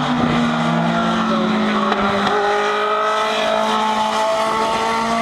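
Legend race car engine running at high revs on track. Its pitch dips slightly, then climbs steadily over the last few seconds.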